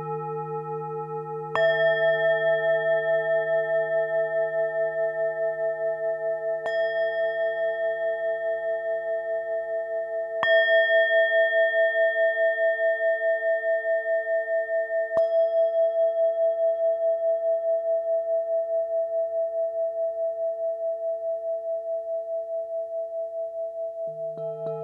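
Tibetan singing bowl struck four times, a few seconds apart, each strike ringing on in a long sustained tone with a slow, even wavering pulse. A deeper ringing tone fades out during the first half.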